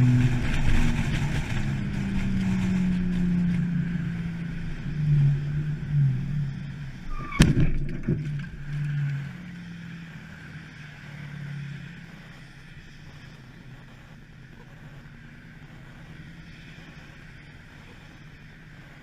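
A car's engine and road noise, its pitch shifting, with a single sharp impact about seven and a half seconds in. After that the sound fades to a low steady hum.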